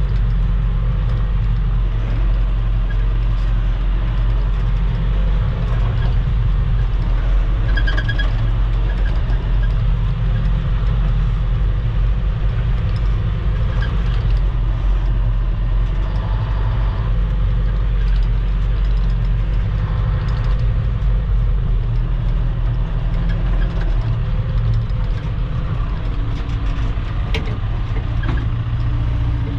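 Engine of a piece of earthmoving equipment running steadily under load while it drags a packed gravel road surface.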